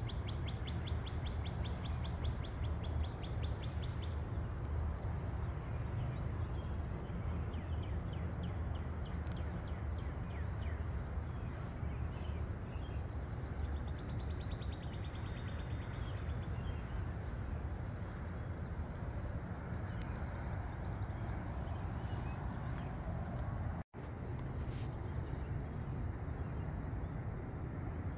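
Wild songbirds chirping, with a fast trill in the first few seconds and scattered calls after, over a steady low rumble. The sound cuts out for an instant near the end.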